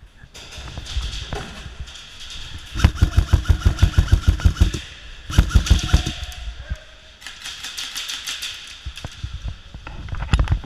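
Airsoft electric rifles firing full-auto bursts, a rapid even rattle of about eight or nine shots a second: one long burst of about two seconds roughly a third of the way in, a shorter burst soon after, and more shots in the second half.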